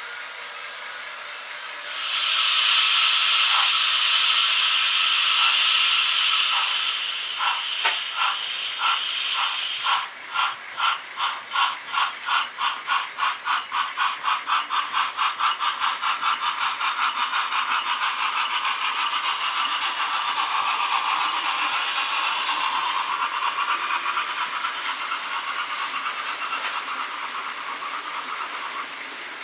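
Sound decoder of an H0 model steam locomotive, played through its small speaker: a steady steam hiss, then exhaust chuffs that begin slowly about seven seconds in and quicken until they run together as the locomotive pulls away.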